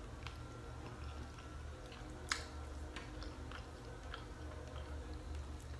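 Faint chewing and small clicks of a fork against a ceramic plate, one sharper click about two seconds in, over a steady low hum.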